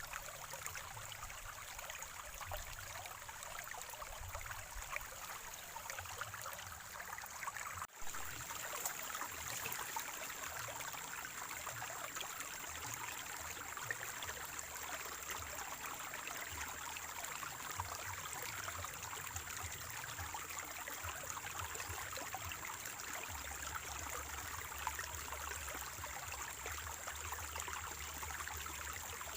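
Water from a small spring-fed stream flowing and trickling steadily. There is a momentary break about eight seconds in, after which the flow sounds a little louder.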